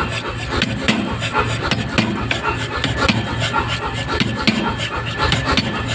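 Power hammer working hot steel through a die, striking in a steady repeating rhythm of about two blows a second over the machine's pulsing low hum.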